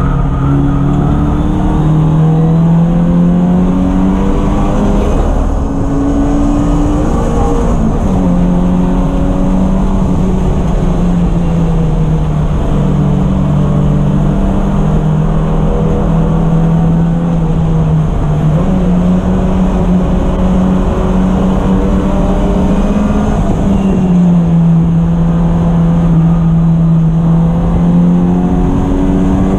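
A race car's engine running hard on track. Its pitch climbs over the first several seconds and drops sharply about seven seconds in, then holds fairly steady with a few dips and rises as the driver lifts and gets back on the throttle.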